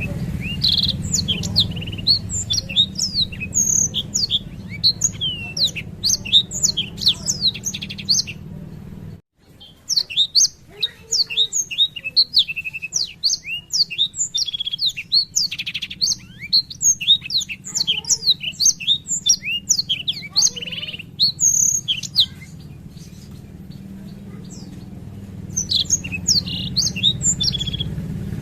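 Black-throated canary singing a long rolling song of rapid high chirps, sweeps and trills, cut off abruptly about a third of the way in and pausing for a few seconds near the end before resuming. A low steady hum runs underneath.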